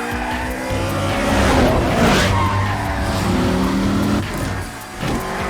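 Car engines revving hard at speed, the pitch climbing and shifting, with a burst of tire-and-rush noise about two seconds in. The engine sound dips briefly near the end, then picks up again.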